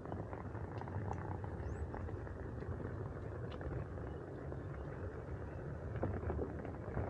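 Steady rumble of wheels rolling over the ground and wind on the microphone while riding, with a few small clicks and knocks.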